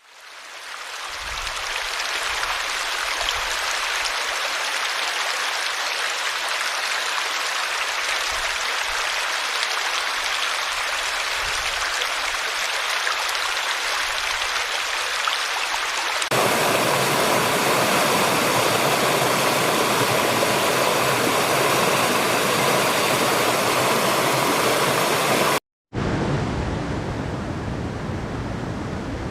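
Running stream water, a steady rush that fades in at the start. About sixteen seconds in it cuts to a louder, fuller stretch of flowing water; near the end a brief moment of silence gives way to another stretch of running water.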